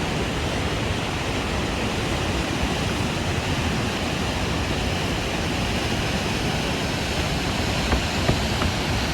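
Steady, loud rush of a large waterfall, the Upper Falls of the Yellowstone River, heard close up.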